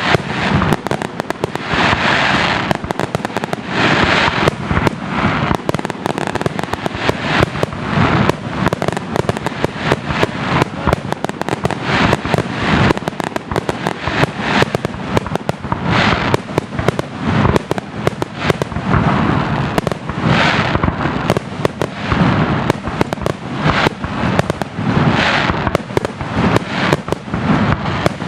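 Aerial firework shells launching and bursting in a dense barrage: sharp bangs come several a second without a break, and a surge of crackling hiss rises every few seconds.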